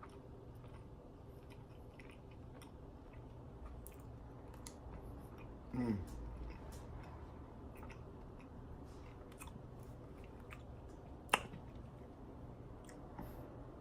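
A person quietly chewing a soft, marshmallow-like banana candy, with faint wet mouth clicks throughout. About six seconds in there is a short falling hum like a closed-mouth 'mmm', and a single sharp click comes a little past eleven seconds.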